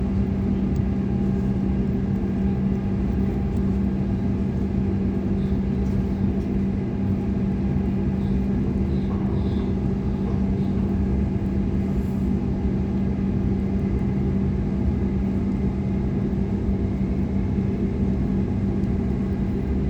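Sydney Trains Waratah A-set electric multiple unit running between stations, heard from inside the carriage: a steady rumble of wheels on the track with a constant low hum.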